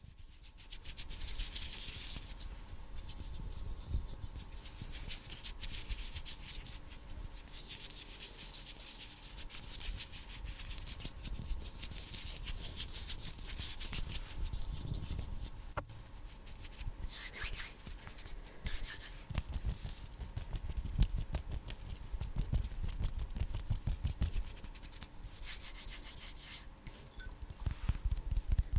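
Bare hands rubbing and brushing against each other, a continuous dry swishing that swells into brighter bursts of rubbing every few seconds.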